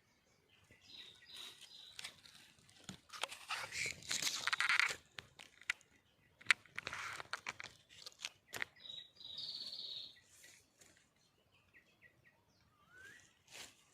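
Short, high bird chirps, twice, between bursts of rustling and crunching, as of dry leaves or litter being disturbed, with scattered clicks; the crunching burst a few seconds in is the loudest.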